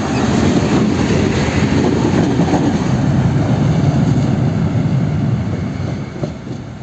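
Freight train passing close by, its wagons rolling past in a steady loud rumble that fades away near the end.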